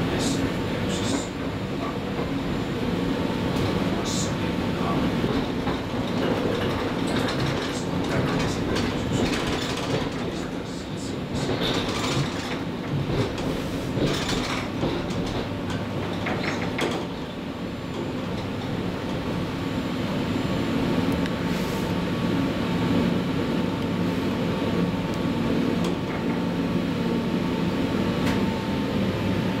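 Onboard running noise of a VR Sm4 electric multiple unit: a steady rumble of wheels on rails under a constant hum, with scattered clicks and knocks from the wheels running over the track, most of them in the middle stretch.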